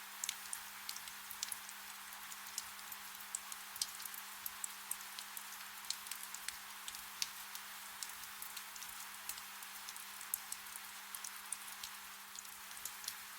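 Soft rain: a steady hiss with many individual drops ticking sharply and irregularly, over a faint, steady low hum.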